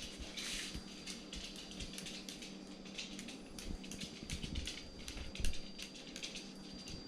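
Light, irregular clicking and tapping, several small ticks a second, as the cockatiel's claws step on a tile floor, over a faint steady hum.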